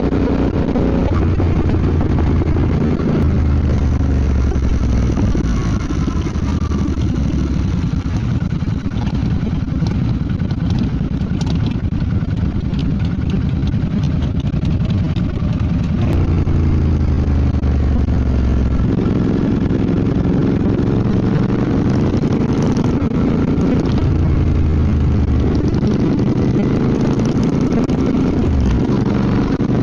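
Royal Enfield Bear 650's parallel-twin engine running under way. Its note rises and falls with the throttle, shifting a few times, around halfway through and again a few seconds later.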